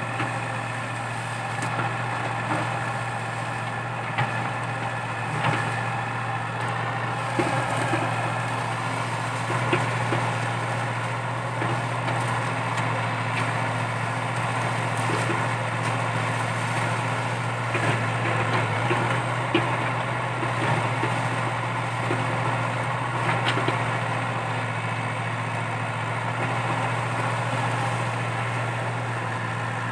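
Komatsu PC80 excavator's diesel engine running steadily while digging out stumps, with scattered short knocks and cracks throughout.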